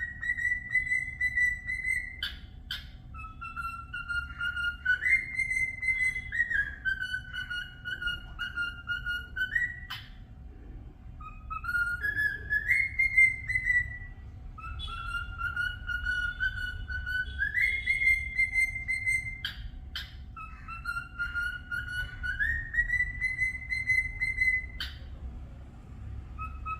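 Cockatiel whistling a tune: long clear held notes that step up and down in pitch in a phrase repeated several times, with a few short sharp chirps between phrases.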